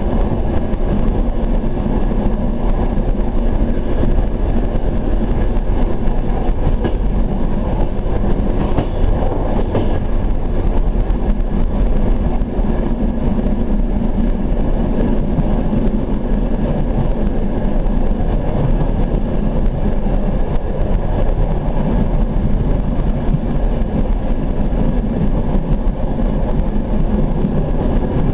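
Steady rumble and rattle of a passenger train carriage running along the track, as heard from inside the car.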